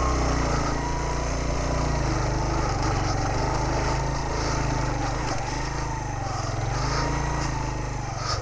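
Motorcycle engine running under load up a rough, rocky off-road climb, its revs rising and falling in gentle waves as it works over large stones.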